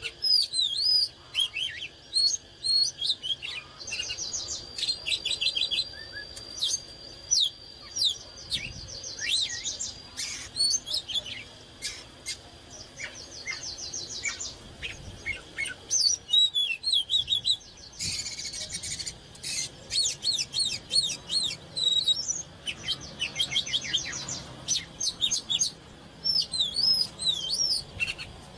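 Oriental magpie-robin singing a varied song of clear whistles, pitch sweeps and fast runs of repeated notes.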